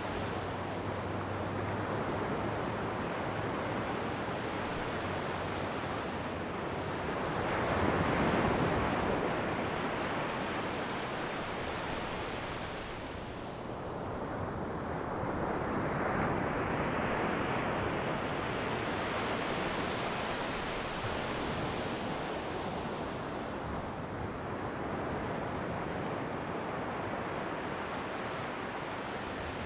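Ocean waves breaking and washing onto a shore, a steady surf noise with a louder wave about eight seconds in and another building from about thirteen seconds, with some wind on the microphone.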